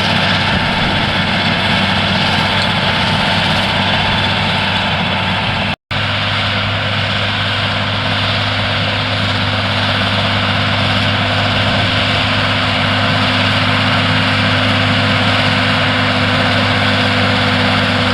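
Claas Challenger tracked tractor's engine running steadily while working a power harrow, a constant low drone. The sound drops out for an instant about six seconds in and resumes at an even, steady pitch.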